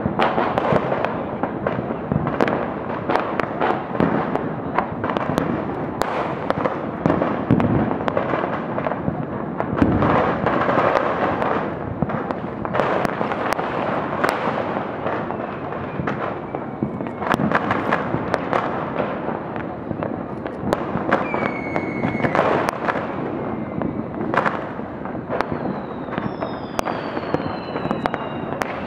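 New Year fireworks and firecrackers going off in a dense, unbroken barrage of overlapping bangs, pops and crackles. In the last third a few high whistles glide down in pitch.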